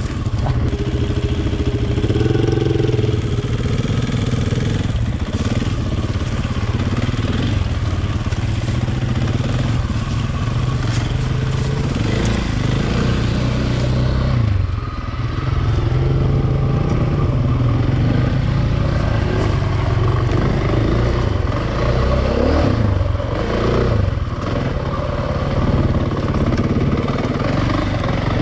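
KTM EXC enduro motorcycle's single-cylinder four-stroke engine running under constantly changing throttle, its note rising and falling, with a brief drop in revs about halfway through.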